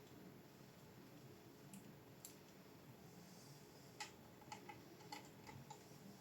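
Faint light clicks over quiet room tone: two around the two-second mark, then a quick run of about six or seven small sharp clicks in the second half.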